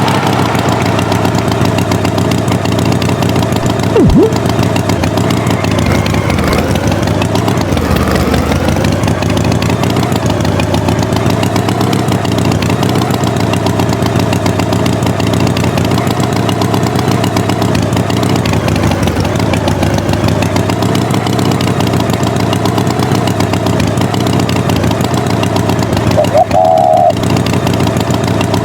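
Tractor engine running steadily at idle, its pitch wavering a little, with a short sharp sound about four seconds in and a brief higher tone near the end.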